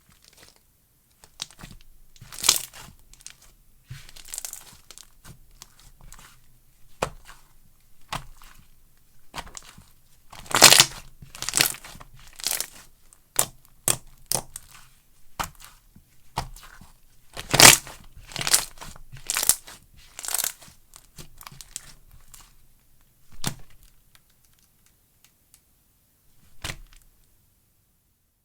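Slime being worked by hand, squished and pulled apart, giving an irregular run of sharp crackling snaps and pops. The loudest snaps come about a third of the way in and again a little past halfway.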